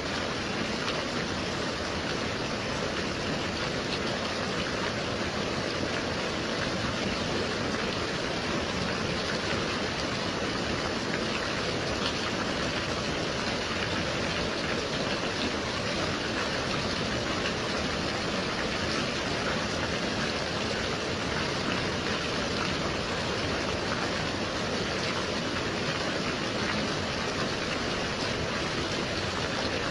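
Gentle rain falling steadily: an even, unbroken hiss with no change in level.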